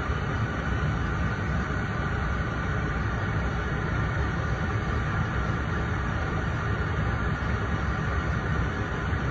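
Steady low rumble of a vehicle engine running, even and unchanging.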